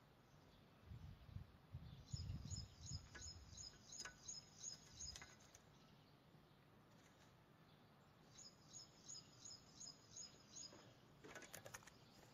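Faint, near-silent room with a small bird chirping in two runs of short, evenly spaced high chirps, about four a second, each run lasting two to three seconds. Soft low thumps in the first few seconds and a few sharp clicks near the end.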